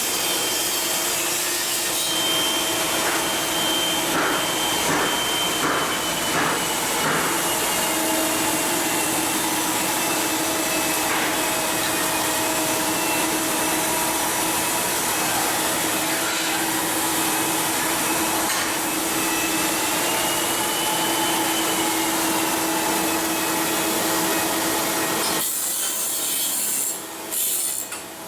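Steady noise of a power tool at metalworking in a shipyard: a dense hiss with a high whine that wavers in pitch, thinning out near the end.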